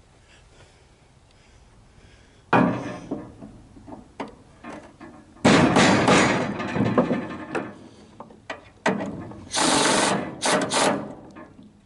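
A sudden thump about two and a half seconds in, then two longer spells of knocking, clattering and scraping, as of hard objects being handled.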